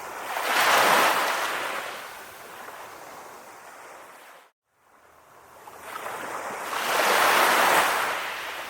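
Ocean waves washing ashore: two swells about six seconds apart, each building and then falling away. About halfway through, the sound drops out to silence for a moment, like an edit in the recording.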